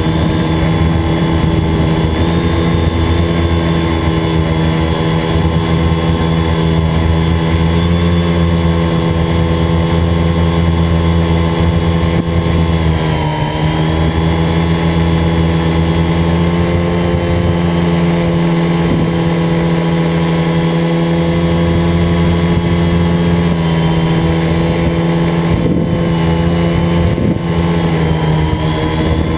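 Multirotor drone's motors and propellers whining steadily as it flies, the pitch dipping briefly about thirteen seconds in.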